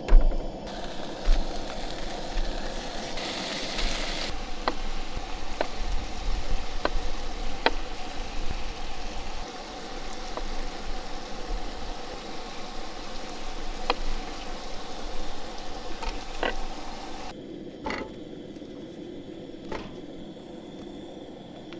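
Food sizzling in a frying pan, a steady hiss with occasional sharp clicks and clinks of utensils.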